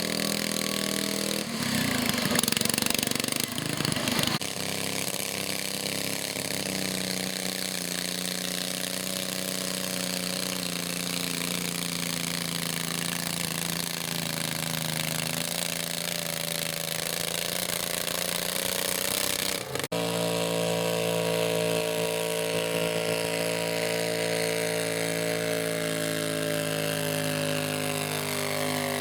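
Small garden tractor engine running steadily, with a louder, rougher stretch a couple of seconds in. After a brief break about two-thirds of the way through, it runs on at a different pitch.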